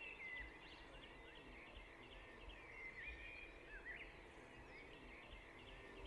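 Faint birdsong: rapid runs of short chirps and brief whistled glides from small birds, over a faint low background rumble.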